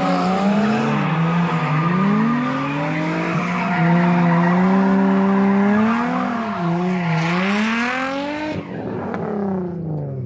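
Drift car's engine revving up and down with tyre squeal as the car slides through corners; about eight and a half seconds in the squeal cuts off and the engine note falls away.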